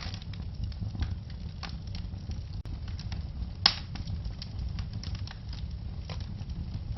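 Fireplace fire crackling: scattered small snaps over a steady low rumble, with one sharp, loud pop a little past halfway.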